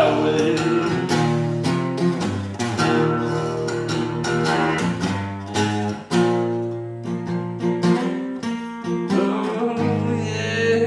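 Acoustic guitar strummed and picked in a country-folk song, an instrumental passage with chords ringing under plucked notes.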